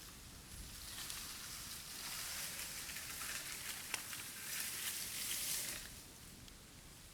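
Bamboo bonfire crackling and hissing, building up about a second in and dying down near the end, with one sharp pop about four seconds in.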